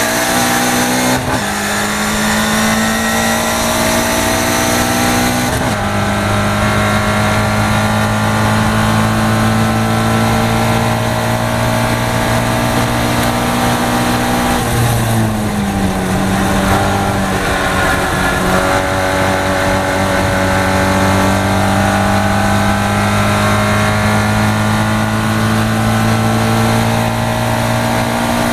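Caterham race car engine heard from the cockpit at full throttle, with wind rush. The pitch drops sharply twice in the first six seconds as the driver shifts up while accelerating hard, then pulls steadily; about halfway the pitch dips and then climbs slowly again to the end.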